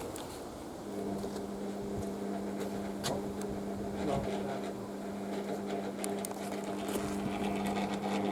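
A machine's steady electric hum switches on about a second in and holds one pitch throughout, with a few faint clicks over it.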